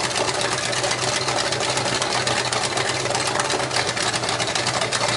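A 1970 Chevrolet 400 small-block V8, running on an engine stand, idles steadily with an even, rapid firing beat and no revving.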